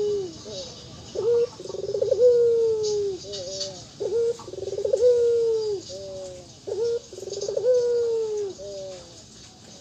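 A puter (Barbary dove) cooing: three long coos about three seconds apart, each opening with a quick rolling stutter and ending in a long, falling note.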